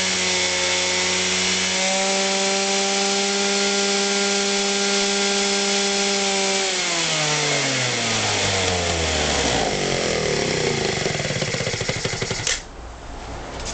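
Yamaha Mint 50cc two-stroke scooter engine held at a steady high rev, then the revs fall away smoothly over two or three seconds about seven seconds in, leaving a rougher low running sound. Near the end the sound drops off suddenly.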